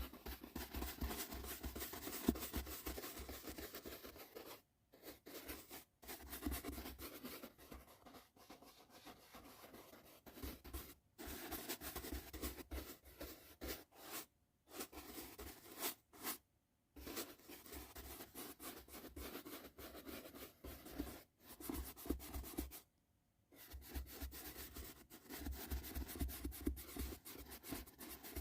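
Soft brush bristles stroked rapidly over the microphone, a close, scratchy rustling that stops dead for a moment several times.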